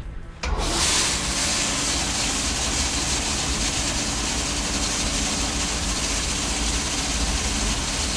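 Rotary parts washer starting up about half a second in, then running steadily: spray hissing with a low motor hum under it. Its basket holds engine parts and is counterbalanced, so it spins without shaking.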